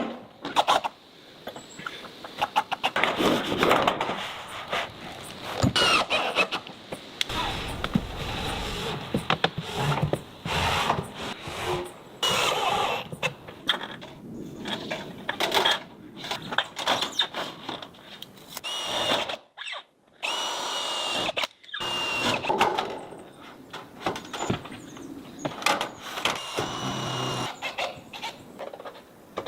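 Construction work with tools on wood: an irregular run of knocks, thuds and scraping, with short high squeaks now and then.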